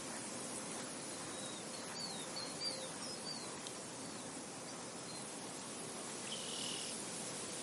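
Soft wind blowing steadily across an open field, with small birds giving a quick run of short chirps about two seconds in and a brief higher call near the end.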